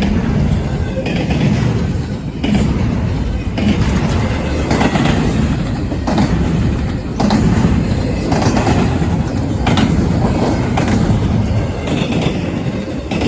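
Intermodal freight train rolling past, a loud steady rumble with sharp wheel clacks about every second as the wheels cross the interlocking's rail joints and switches.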